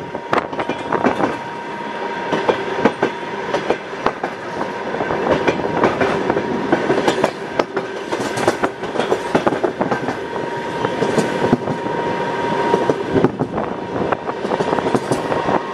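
Passenger train running along the track, its wheels clattering over the rails in a steady rumble with many sharp clicks, under a thin steady high tone.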